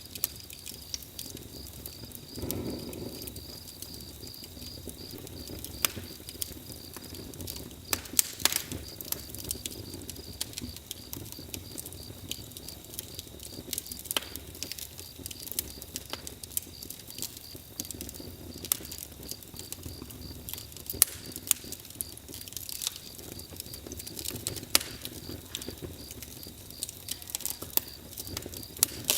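Campfire crackling, with irregular sharp pops and snaps over a low rush of burning. A brief louder whoosh comes about two and a half seconds in.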